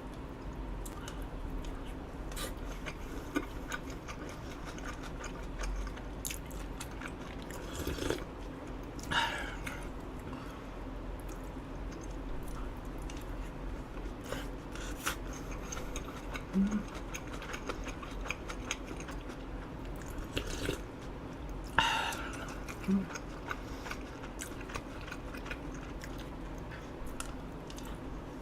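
Close-miked eating sounds: chewing a mouthful of rice and grilled eel, with many small wet mouth clicks and a few louder smacks.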